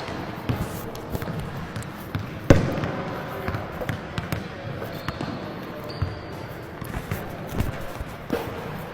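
A basketball bouncing on a hard court: single thuds at irregular intervals, the loudest about two and a half seconds in.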